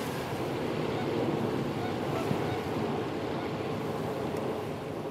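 Dense chorus of ducks and geese, quacks and honks blending into a steady din, over distant traffic noise.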